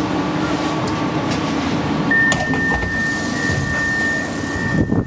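Interior running noise of a PESA Fokstrot tram, a steady rumble and hum. About two seconds in, a steady high-pitched tone starts and holds for nearly three seconds, followed near the end by a few sharp clicks and clatters.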